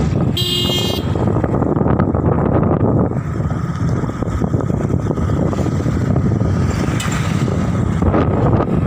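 Steady road and wind noise from a moving vehicle, with a brief high-pitched tone about half a second in.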